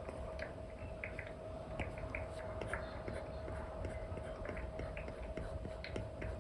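Apple Pencil 2 with an Elecom nib tapping and stroking across a paper-like film on an iPad screen: irregular light ticks and short scratchy strokes, over a steady low hum and a faint constant tone.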